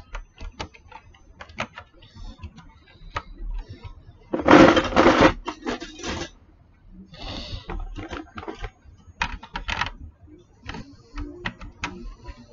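Plastic building bricks clicking and snapping together as pieces are fitted, with a louder rattle of loose pieces about four and a half seconds in.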